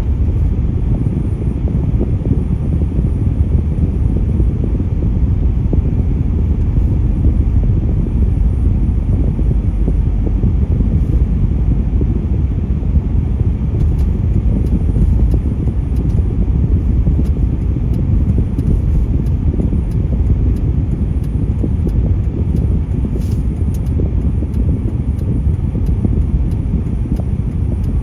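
Steady low rumble of road traffic, with no single vehicle passing clearly above it.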